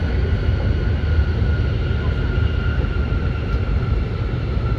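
West Kyushu Shinkansen N700S train running, heard inside the passenger cabin: a steady low rumble with a faint, even whine above it.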